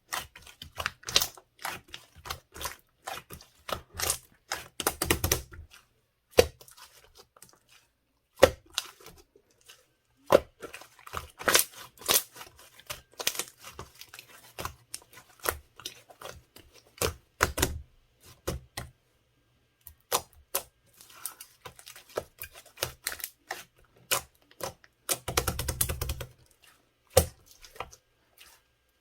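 Gold pearl slime being pressed and played with by hand, making a fast, irregular run of sticky clicks and small air-bubble pops. There are longer squishing stretches about five seconds in and again near the end.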